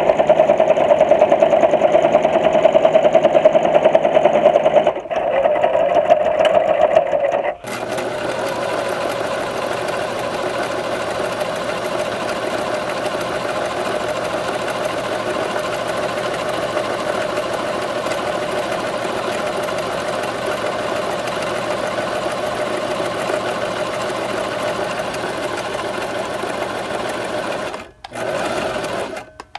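Sewing machine running steadily. It is louder for the first seven seconds or so, with a short break about five seconds in, then settles into a smoother, quieter run that stops briefly twice near the end.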